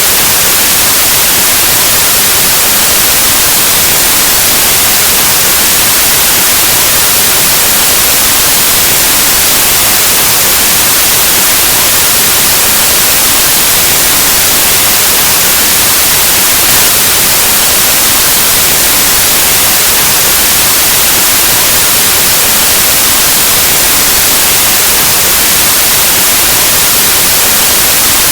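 Loud, steady white noise: an even static hiss like analog TV or radio static, unchanging throughout.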